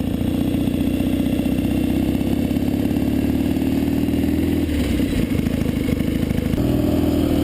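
1967 BSA Spitfire's 650 cc parallel-twin engine running steadily, with a rapid, even firing beat. The note shifts about five seconds in.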